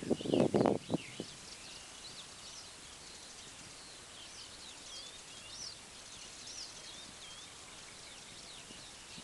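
Small birds chirping and singing in short rising and falling notes over a steady outdoor hiss, with a brief low knocking rumble in the first second.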